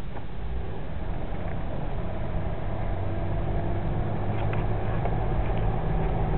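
Car running, heard from inside the cabin: a steady low engine and road rumble under a faint hiss, with a faint tone that rises slightly in the second half.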